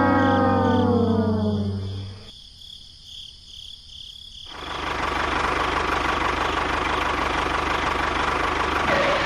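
A falling brass-like sound effect that dies away over about two seconds, then after a short lull a steady mechanical noise like a small motor running.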